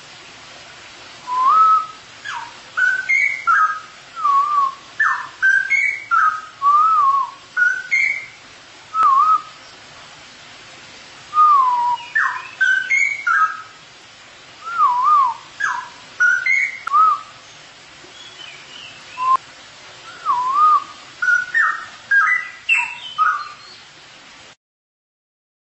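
Straw-headed bulbul singing loud, liquid whistled warbling phrases in bursts separated by short pauses, over a faint steady hiss. The song cuts off suddenly about a second before the end.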